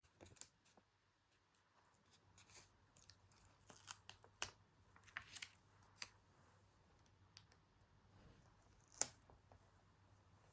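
Quiet paper handling at a journal: a string of faint, crisp snips, rustles and light taps of paper and stickers, with one sharper snap about nine seconds in.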